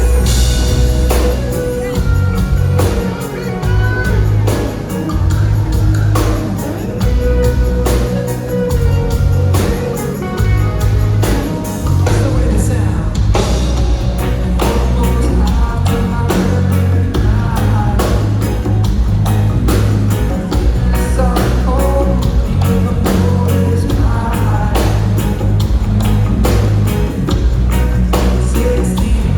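Live reggae band playing: deep, heavy bass and a steady drum beat, with guitar and a lead singer's voice.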